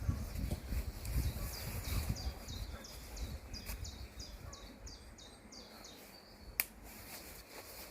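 A small songbird singing a run of about a dozen repeated high notes, roughly three a second, over a low rumble. A single sharp click comes near the end.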